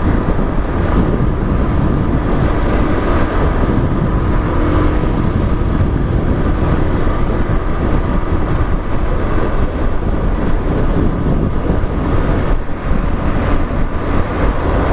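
Suzuki DR-Z single-cylinder motorcycle engine running at steady road speed under heavy wind rush on the microphone. The bike is being ridden with its choke halfway out, since it will not idle with the choke in.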